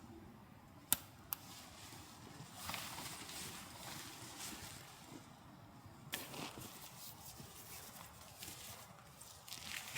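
Two sharp clicks about a second in, then irregular scuffing and rustling, with another click a little after six seconds: someone handling things at camp.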